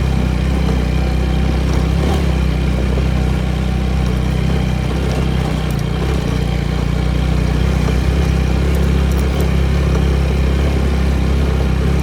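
Apache motorcycle engine running steadily under way, with road noise over it.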